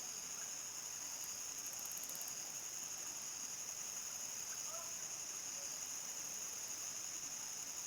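Crickets trilling in a steady evening chorus, an unbroken high-pitched shrill, with a few faint lower calls here and there.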